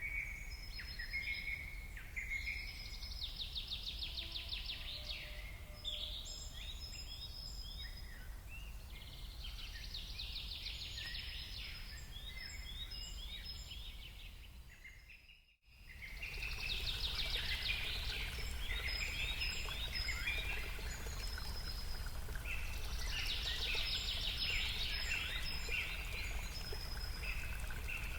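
Several songbirds singing together, with repeated fast trilling phrases and short chirps over a steady low rumble. The sound fades out briefly about halfway through and comes back slightly louder.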